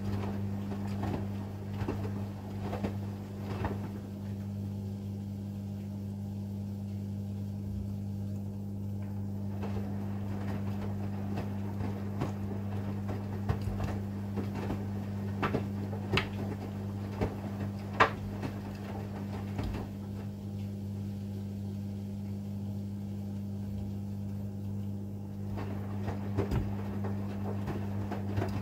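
AEG Lavamat front-loading washing machine in its wash phase: the drum tumbling the laundry, with sloshing and scattered knocks and clicks over a steady low hum. Twice, about five seconds in and again about twenty seconds in, the drum stops for roughly five seconds between turns before tumbling again.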